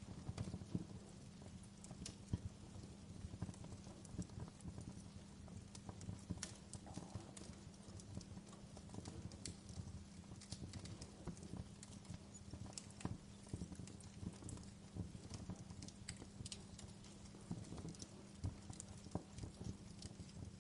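Wood fire crackling in a fireplace: irregular small pops and snaps over a low steady hum.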